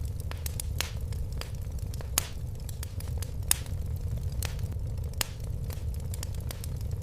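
Wood fire crackling in a fireplace: irregular sharp pops and snaps, the loudest about two and three and a half seconds in, over a steady low rumble of the flames.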